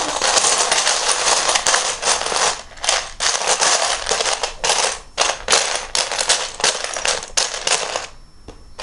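Hands rummaging through a pile of loose plastic Lego bricks, a rapid continuous clatter with short pauses, stopping briefly near the end.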